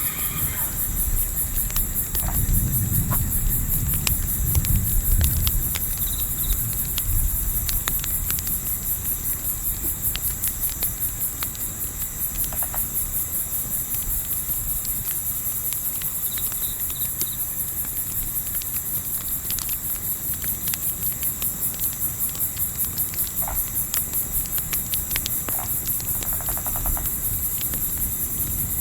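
Crickets chirping steadily in a fast, even pulse, over a campfire crackling with scattered sharp pops. A low rumble runs under the first few seconds, then fades.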